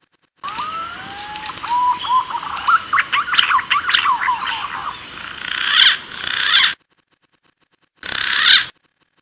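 Green pigeon (punai) calls from a hunting lure recording: rising whistled glides, then a quick run of warbling whistled notes, cut off abruptly after about six seconds. After a short gap comes one brief, clipped burst of the same calls near the end.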